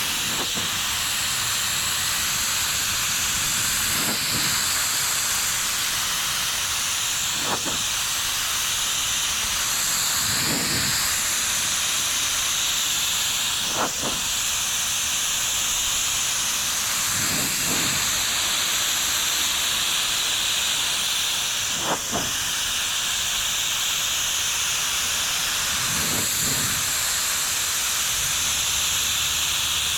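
Spray gun spraying automotive primer: a steady hiss of air and atomised primer, with a small change in the hiss every three to four seconds.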